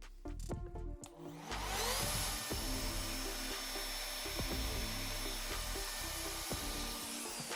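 Electric wood router spinning up with a rising whine about a second and a half in, running at steady high speed, then winding down near the end.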